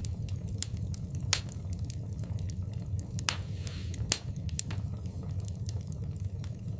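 Fireplace fire crackling: scattered sharp pops over a steady low rumble, with two louder pops, one about a second in and one about four seconds in.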